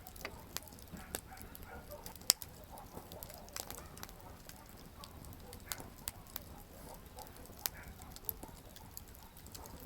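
Wood campfire crackling: irregular sharp pops and snaps, one louder pop about two seconds in, over the low steady rush of the flames.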